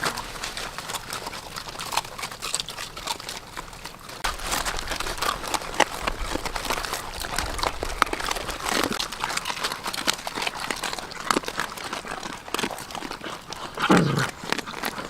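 Busy rustling and crackling, with a short animal call falling in pitch about fourteen seconds in.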